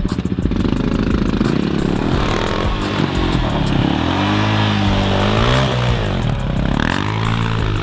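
Small pit bike engine running and being revved up and down several times, its pitch rising and falling in waves.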